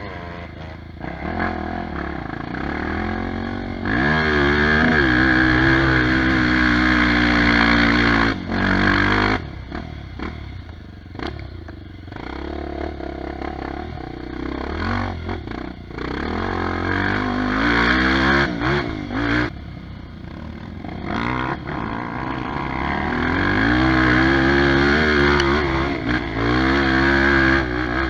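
Trail motorcycle engine revving hard under load in three long surges of rising pitch, with the throttle chopped between them.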